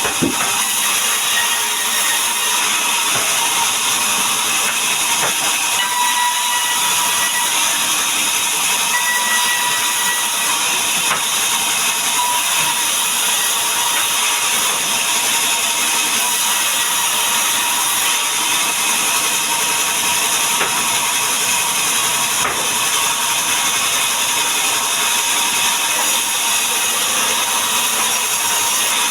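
Power saw running steadily while cutting through wood: a continuous loud hiss with a faint steady whine.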